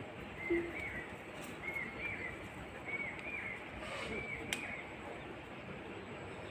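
A bird calling over and over, a short two-note chirp repeated about once a second, over steady outdoor background noise, with a couple of faint clicks.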